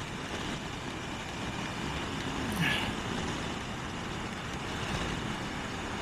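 Steady road and wind noise from a moving motorcycle, with the engine running underneath.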